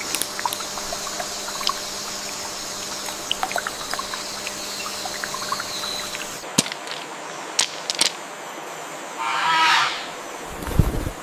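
Rainforest ambience: a steady hiss like trickling water with scattered small clicks. A short pitched call comes near the end.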